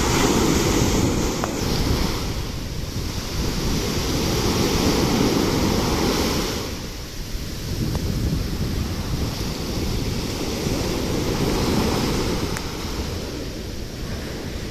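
Sea waves washing in, the surf swelling and easing every few seconds, with wind buffeting the microphone.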